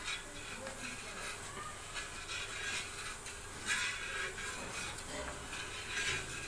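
Irregular scraping and rubbing of a stirrer against a metal pan, with a couple of light knocks.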